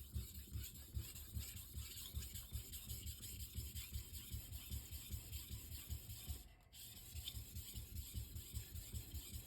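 Steel knife blade rubbing back and forth on a Shapton Rockstar 1000-grit whetstone in quick, even sharpening strokes, with a brief pause about two thirds of the way through.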